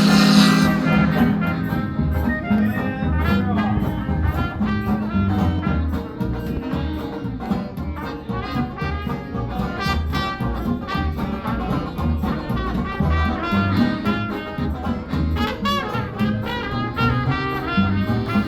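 Jazz with brass horns (trumpet and trombone) playing over a steady bass beat.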